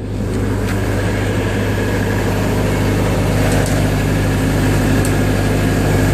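A 20,000-watt generator running steadily with a low, even hum. It comes up suddenly loud right at the start.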